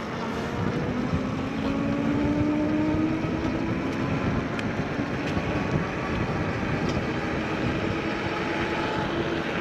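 Electric bike riding along: wind rushing over the microphone and tyre noise, under a steady whine that slowly rises in pitch as the bike gathers speed.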